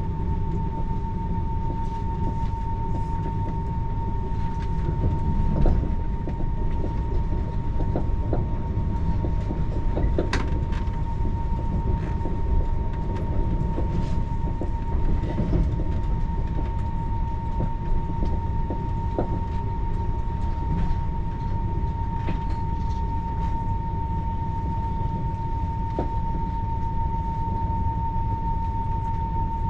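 Inside a TER regional train carriage running at speed: a steady low rumble with a constant high whine and occasional light knocks and rattles.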